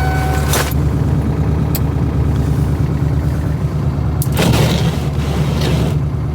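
A 1996 Ford F350's 7.3 Powerstroke V8 turbo diesel running with a steady low drone. A few dull knocks sound over it, the strongest about half a second in and around four and a half seconds.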